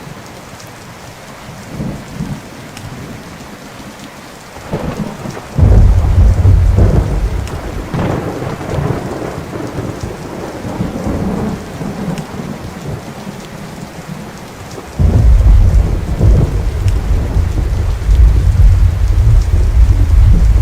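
Thunderstorm: steady rain with rolling thunder. Two loud, deep thunder rolls break in suddenly, about five and a half seconds in and again about fifteen seconds in, each rumbling on for several seconds.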